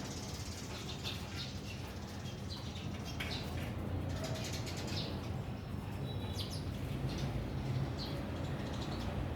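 Birds at a feeding spot: wings flapping and short high chirps coming irregularly, over a steady low hum.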